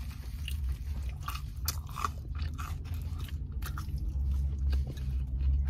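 Close-up chewing of a bite of buttered toast, with irregular crisp crunches.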